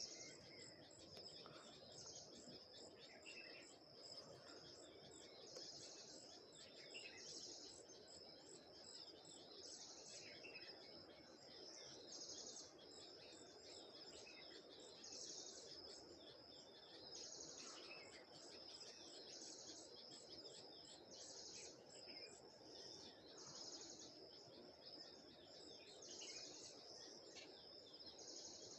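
Faint outdoor chorus: insects trill steadily at a high pitch, swelling in louder pulses every second or two, while birds give short scattered chirps, over a low steady background rush.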